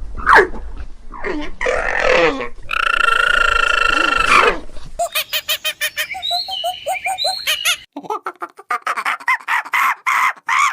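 A string of different animal calls, one after another: short calls at first, a long steady call in the middle, then fast repeated pulsed calls near the end.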